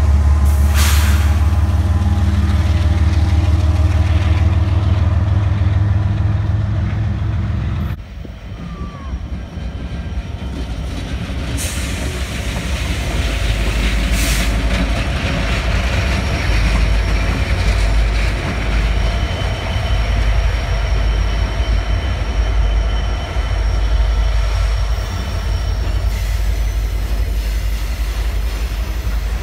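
Canadian Pacific diesel freight locomotives passing close, their engines giving a heavy, steady low rumble. About eight seconds in, the sound cuts abruptly to another freight rolling by: locomotives and cars with steady wheel-on-rail rumble, a couple of knocks and a faint high wheel squeal.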